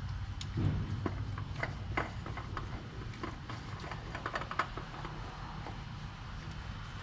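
A new spin-on oil filter being threaded on by hand: a run of light clicks and taps that stops about four and a half seconds in, over a steady low hum.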